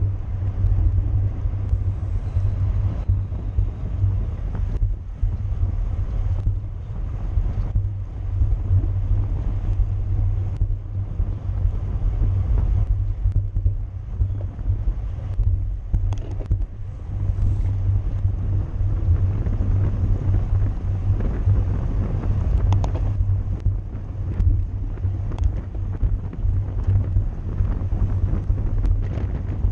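Wind buffeting the microphone of a camera riding on a racing bicycle at speed: a steady, heavy low rumble with rushing noise, and a few faint clicks.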